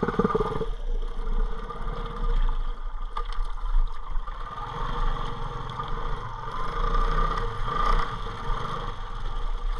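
Motorbike engine running steadily at low speed.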